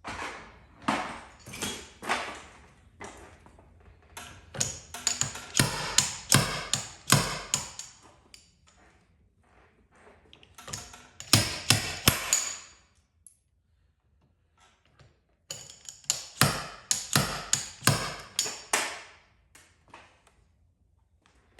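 Runs of quick, light metallic hammer taps in three bursts of a few seconds each, with pauses between, typical of tapping a car body panel during paintless dent repair.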